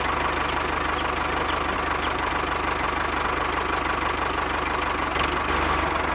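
A miniature toy tractor runs steadily, with an even, low pulsing hum, as it drives along pulling a loaded brick trolley.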